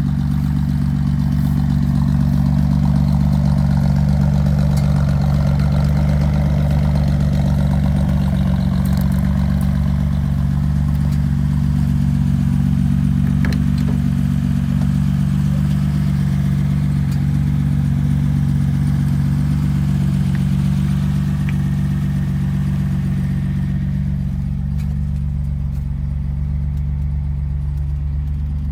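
Datsun 240Z's 2.4-litre straight-six idling steadily.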